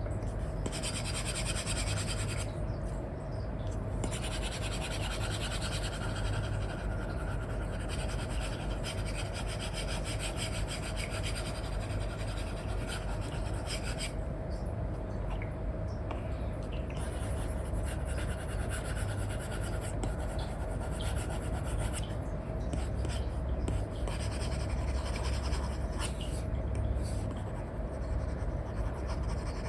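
Apple Pencil with an Elecom nib scratching and rubbing across a paper-like iPad screen film in quick colouring strokes. The strokes run in spells with short pauses between them, over a steady low hum.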